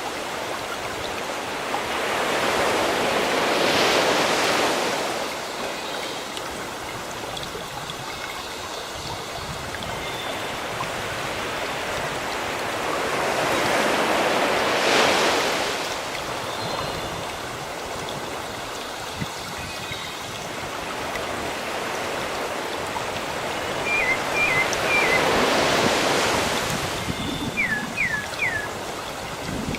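Sea waves washing ashore, swelling and fading three times about eleven seconds apart. Near the end a bird chirps a few short calls, then three quick falling notes.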